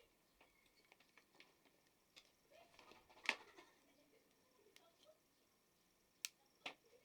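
Scattered small clicks and taps of tool parts being handled on a workbench, with a louder knock about three seconds in and two sharp clicks near the end.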